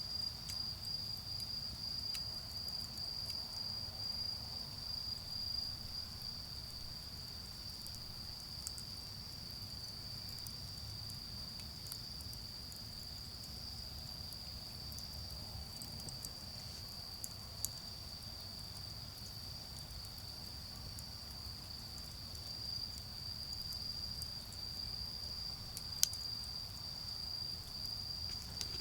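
Autumn crickets trilling in one steady, unbroken high-pitched chorus over a low rumble of distant road traffic. A charcoal fire adds a few faint crackles, with one sharp pop about 26 seconds in.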